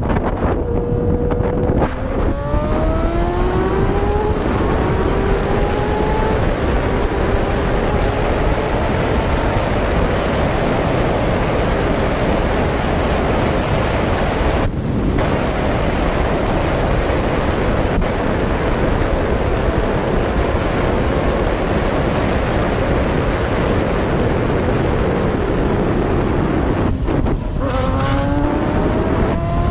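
Steady, loud wind and road noise of a moving vehicle. An engine rises in pitch as it speeds up, about two seconds in and again near the end.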